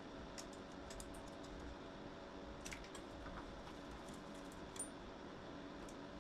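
Scattered light clicks and rattles of plastic electrical connectors being unplugged from the engine wiring harness, the sharpest click about three-quarters of the way through, over a steady background hum.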